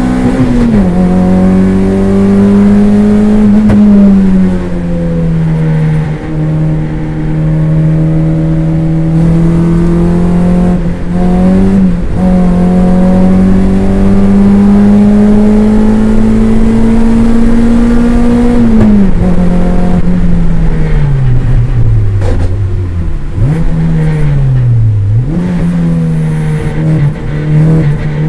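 Toyota MR2 race car's engine heard from inside the cabin under hard driving. It climbs steadily in pitch with quick drops at gear changes, then winds down for several seconds in the second half as the car brakes and downshifts, and picks up again near the end.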